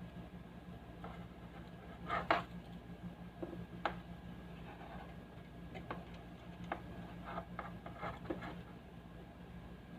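Steady low electrical hum from a speaker, the mains-type buzz that is the fault being fixed, with a faint steady high tone above it. Irregular small clicks and taps come through it, the loudest about two seconds in.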